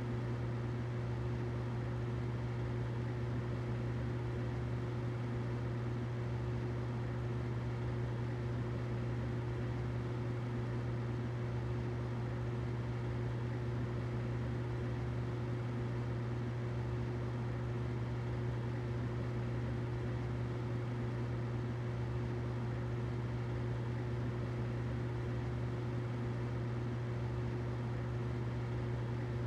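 Humidifier running: a steady low hum with a fainter higher tone over an even hiss, unchanging throughout.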